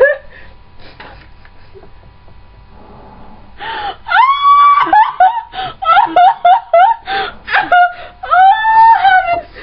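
A person letting out a run of short, high-pitched wailing cries that slide up and down, starting nearly halfway in after a few quiet seconds.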